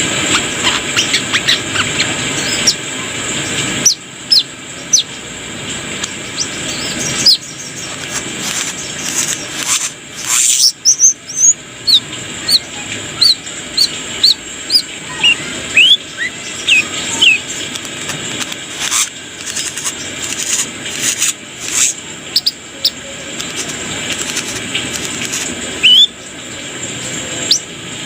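Brown-throated sunbird (kolibri kelapa, 'korlap') singing in full voice: many short, sharp high chirps and quick twittering glides in irregular runs, with loud clicking notes throughout, over a steady hiss.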